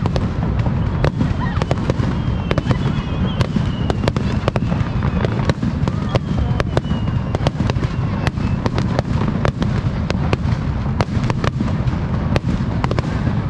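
Fireworks display: many shells bursting in quick, irregular succession with sharp cracks, over a continuous deep rumble of booms.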